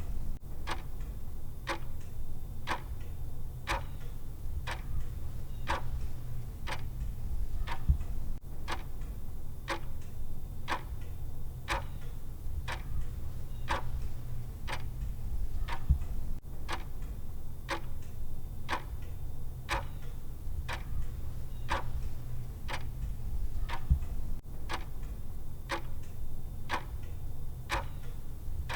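Clock ticking steadily, about two ticks a second, the timer's tick sound, with a steady low hum underneath.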